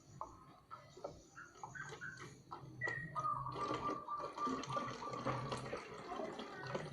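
Water dripping and splashing, then running steadily and louder from about three seconds in, with a thin steady whine over it for a couple of seconds.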